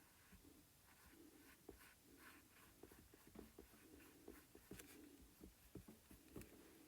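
Faint, irregular brushing and dabbing of a paintbrush laying acrylic paint onto the painting surface, with small soft clicks.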